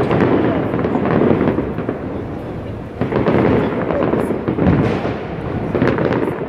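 Fireworks display: shells bursting amid dense crackling, swelling in loud waves at the start, about three seconds in and again near the end.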